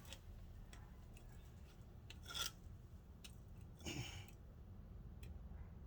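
Faint scraping and a few light clicks of metal brake parts being handled as a brake caliper pin is worked into place, with two short scrapes about two and four seconds in.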